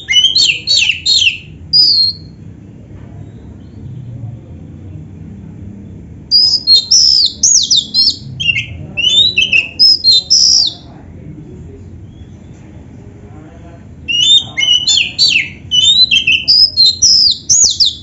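Oriental magpie-robin (kacer) singing in three bursts of quick, high, sweeping notes a few seconds apart, its song filled with canary-like phrases.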